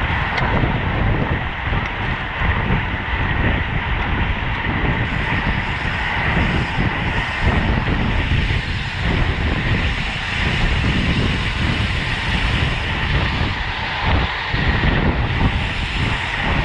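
Wind rushing and buffeting over the microphone of a camera carried on a bicycle at road-race speed, a continuous rush of noise with gusty swells in the low end.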